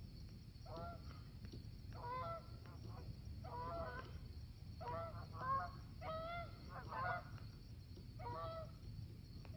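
Geese honking faintly, a series of about nine short honks at irregular intervals over a low background hiss.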